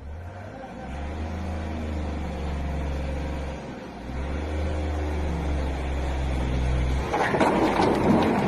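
Truck engine running and revving in two long pushes, easing briefly about three and a half seconds in. About seven seconds in, a sudden loud rushing clatter takes over, typical of the load sliding off the truck bed when the truck stops hard.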